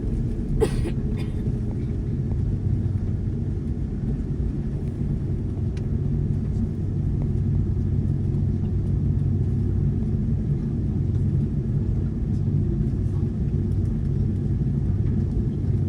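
Steady low rumble of an Airbus A330-200 heard from inside the passenger cabin while the airliner taxis, with a low steady hum under it and one brief sharp click about a second in.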